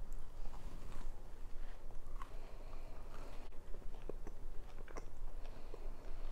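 A person chewing soft, moist food close to the microphone, with many small wet clicks and smacks of the mouth, over a faint steady low hum.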